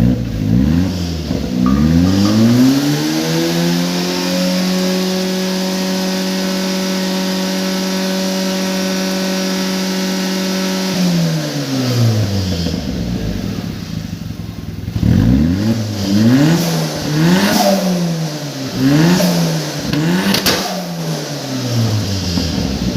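Turbocharged Maruti Zen engine revved hard through its exhaust: it climbs, holds high and steady for about six seconds, then drops back. It follows with a run of quick throttle blips, with sharp pops from the exhaust among them near the end.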